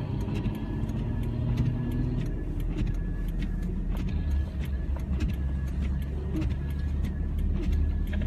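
Car driving on snowy roads: a steady low rumble of engine and tyres, with frequent faint irregular clicks.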